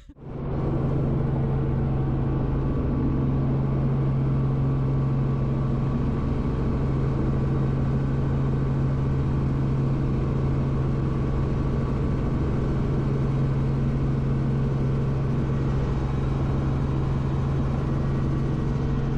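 Helicopter in flight heard from inside the cabin: a loud, unchanging drone with a strong low hum and engine-and-rotor noise.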